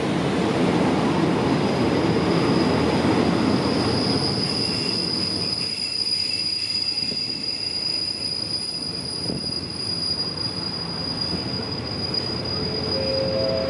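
Passenger train rolling along the rails with a steady, high-pitched squeal from its steel wheels. The low rumble of the running train eases about halfway through while the squeal carries on.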